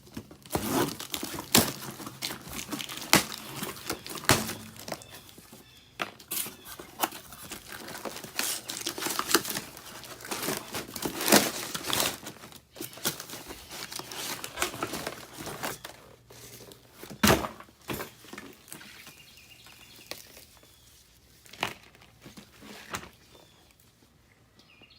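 Hands handling crinkly material, with irregular crackling and rustling and many sharp clicks and knocks; the loudest knock comes a little after halfway.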